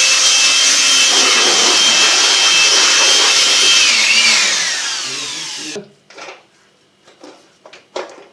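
Electric hand blower running at full speed, blowing leftover rinse water out of a gas water heater's heat-exchanger coil, then switched off about four seconds in, its whine falling as the motor spins down. A few light metal clinks follow near the end.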